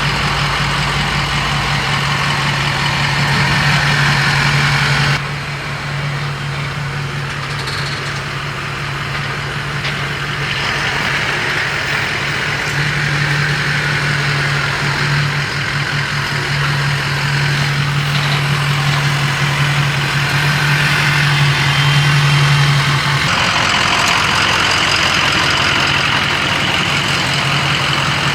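A motor vehicle's engine idling steadily, with a constant low hum; its sound changes abruptly twice, about five seconds in and again later on.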